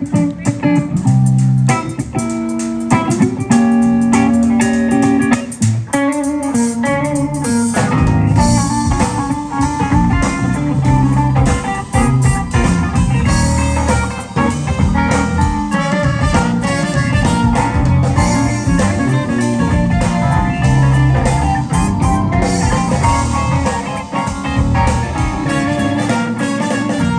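Live blues band playing an instrumental intro: a guitar and bass riff for the first several seconds, then the drum kit and the rest of the band come in about eight seconds in and play on together.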